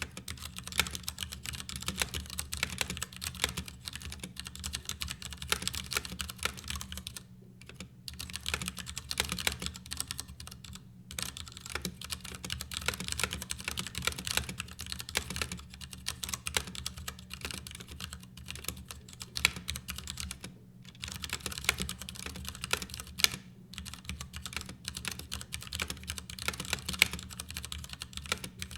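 Fast, continuous typing on a Ducky Year of the Rat mechanical keyboard, a hot-swap board with no sound-dampening material inside: a dense run of key clacks with a few brief pauses. A steady low hum sits underneath.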